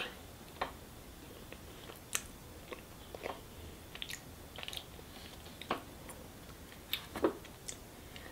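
Mouth sounds of someone eating extremely sticky honeycomb and then a soft mochi: irregular short smacks and clicks of the lips and tongue while chewing.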